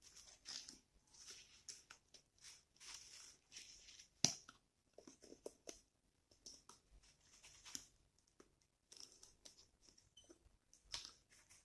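Faint, scattered clicks and scrapes of iron wire and pliers being handled, with one sharper click about four seconds in.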